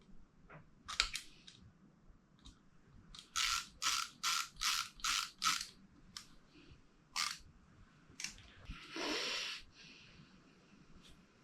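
Small metal carburettor parts being handled and worked on a bench. A few clicks come about a second in, then a quick run of six short, sharp rasping strokes, a couple of single clicks, and a longer burst near the end.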